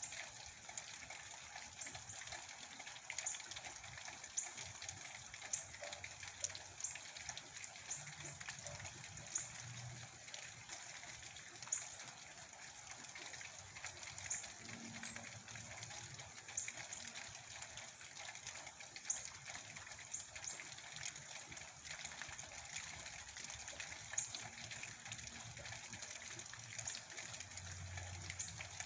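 Steady rain falling, a constant hiss with sharp drip and drop ticks scattered irregularly through it.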